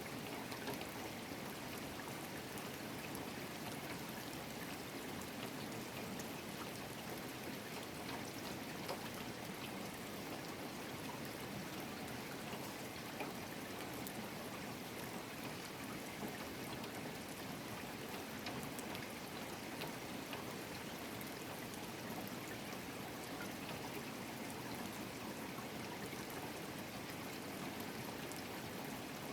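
Steady rain falling, with scattered drops ticking on surfaces and a running trickle of water.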